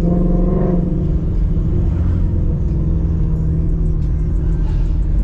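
5.0 V8 with a Roush X-pipe and axle-back exhaust running at low, steady revs as the car rolls in slowly, a deep, even drone heard from inside the car.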